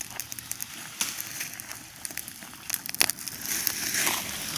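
Bonfire of wood crackling, with irregular sharp pops and snaps; the loudest snap comes about three seconds in.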